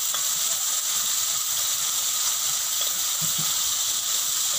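Flour-battered squid sizzling in hot oil in a wok: a steady, even hiss of deep-frying.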